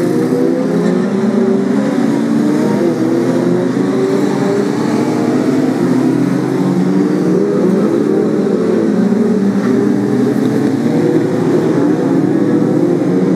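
Several BriSCA F2 stock car engines racing together, their overlapping notes rising and falling as the cars accelerate and lift off around the oval.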